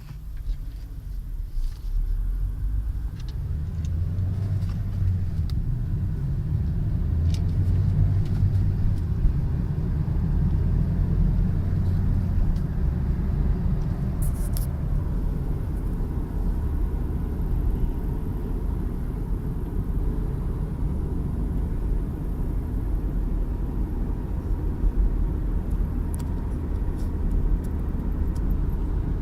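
Hyundai Solaris heater blower motor running with a whistle, over a steady low rumble from the running car.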